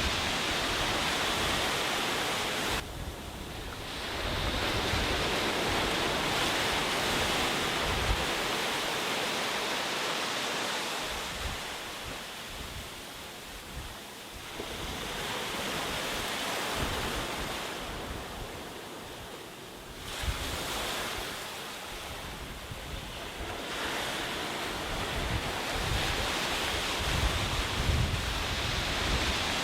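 Sea waves washing onto a beach, the surf swelling and easing every several seconds, with wind buffeting the microphone in low rumbles.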